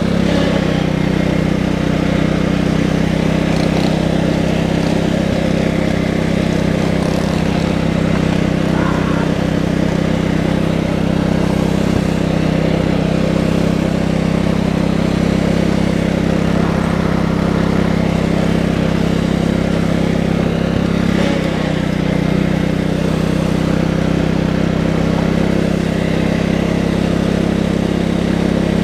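Tractor engine running steadily at a constant speed, with almost no change in pitch.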